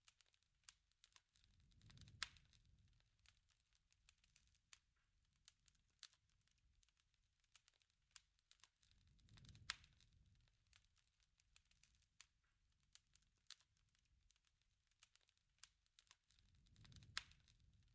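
Faint wood fire crackling, with scattered sharp pops and a soft low rush of flame that swells up three times, about every seven seconds.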